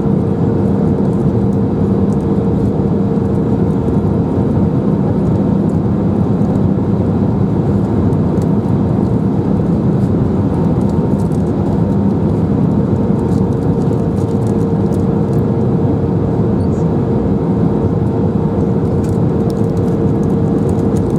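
Cabin noise inside an Airbus A319 airliner in flight: the steady rush of engines and airflow with a constant low hum and a higher steady drone that fades out for a few seconds in the middle and then comes back.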